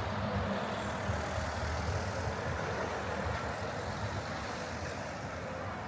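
Road traffic on a busy city street: the steady engine rumble of passing vehicles, heavy ones among them, easing off slightly in the second half.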